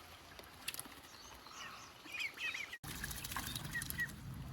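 Faint short bird chirps, several in quick succession, with a few light splashing clicks; a steadier low background noise comes up about three seconds in.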